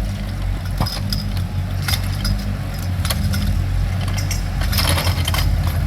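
Small ride-on excavator's engine running steadily, with sharp metal clanks and knocks from the arm and attachment, and a rattling burst near the end.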